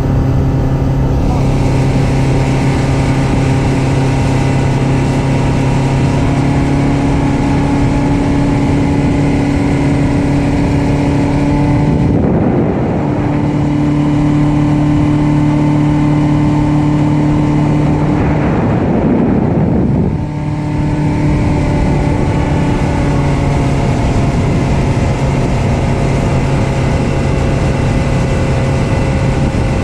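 Yamaha outboard motor driving a bay boat, running steadily with its engine note stepping up slightly a couple of times. Two brief rushes of noise come around the middle.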